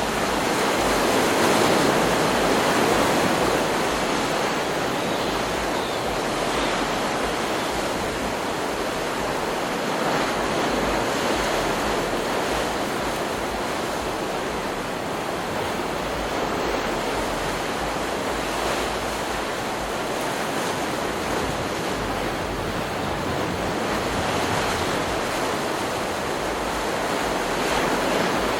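Ocean surf from a stock beach recording: waves breaking and washing up in a steady rush, swelling slightly in the first few seconds.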